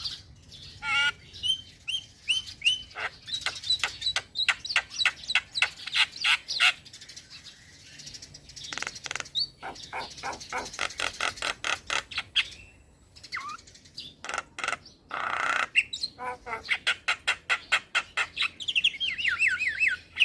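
Young male Javan myna singing a long, varied song: whistled notes mixed with fast rattling, clicking chatter, broken by short pauses, and a quick series of falling whistles near the end.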